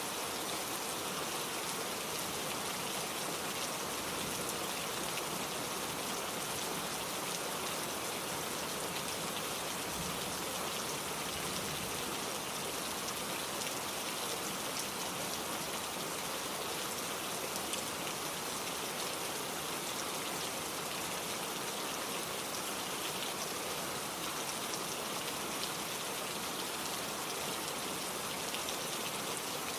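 Steady rain falling, even and unbroken, with individual drop hits heard through it.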